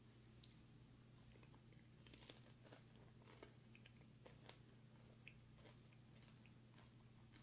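Faint chewing of candy-coated popcorn: scattered small crunches and mouth clicks, over a low steady hum.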